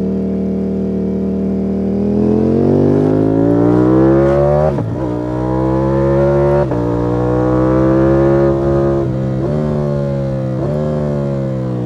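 Ducati Panigale V4 S's V4 engine accelerating hard: the revs climb, drop sharply twice at upshifts and climb again. Near the end the revs fall as it slows, with two short throttle blips on downshifts.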